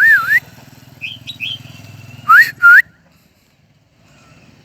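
A crested songbird singing loud, looping whistled phrases, with a few softer chirps about a second in and two rising whistled notes halfway through; the song stops about three seconds in.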